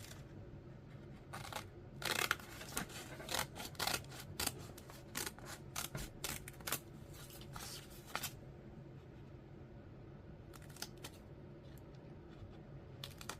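Scissors cutting through folded paper: a run of short, irregular snips for most of the first eight seconds, thinning to a few scattered snips after that.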